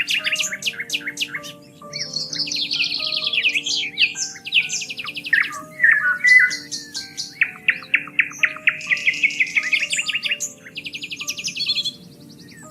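Songbirds singing and chirping in fast repeated trills and notes, several overlapping, over soft background music of slow held notes.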